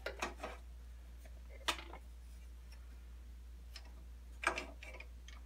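A few light clicks and taps of hardware being handled: a short run right at the start, one about a second and a half in, and a small cluster near the end.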